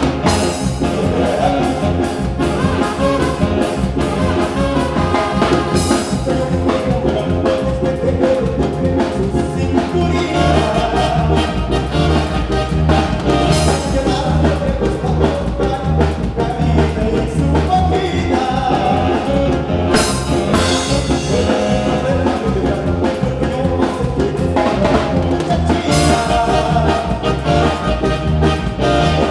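Band music with horns and a drum kit playing a steady beat, with singing at times.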